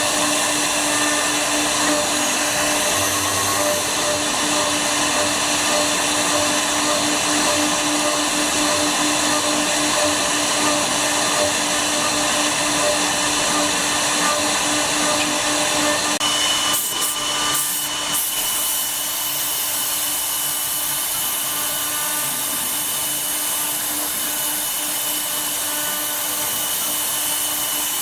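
Woodworking CNC router running and cutting wood, a steady high-speed spindle whine over cutting noise. About 17 s in there are a few clicks, and after that it runs slightly quieter with a higher steady whine.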